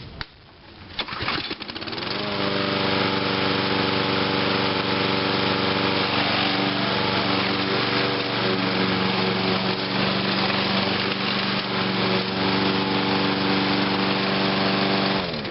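Briggs & Stratton engine of a 2003 Huskee (MTD) 22-inch self-propelled lawn mower starting warm: it catches about two seconds in, rises to speed, and runs steadily. It is shut off just before the end and its speed falls away.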